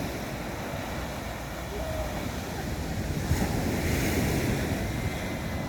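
Sea waves breaking on the shore, with wind buffeting the microphone; a wave breaks and washes in about three seconds in.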